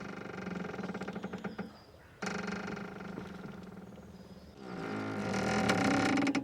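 Boat rope squeaking under strain: a series of long, drawn-out pitched creaks, with a sharp start to the second about two seconds in and the last one the loudest.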